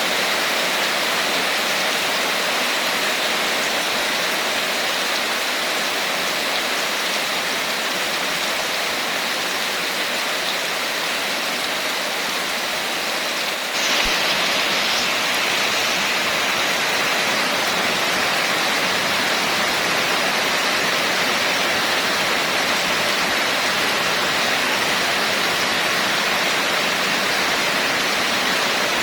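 Steady heavy rain, a dense even hiss, with a sudden break and a slight step up in level about halfway through.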